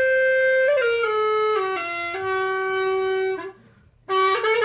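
A single wind instrument playing a slow tune of long held notes that step up and then down. It breaks off about three and a half seconds in and comes back on a low note just before the end.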